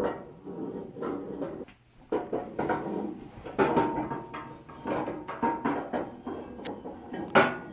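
Steel sections of a motorcycle hitch carrier clanking and scraping as they are slid together, with a brief metallic ring in the middle and a sharp knock near the end.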